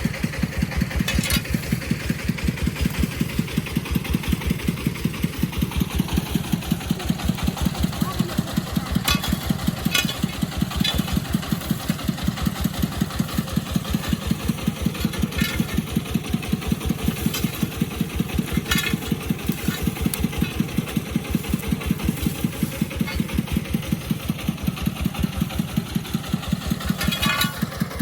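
Agricultural vehicle's engine running steadily with an even chugging beat of about five a second, with a few sharp clicks or clanks now and then.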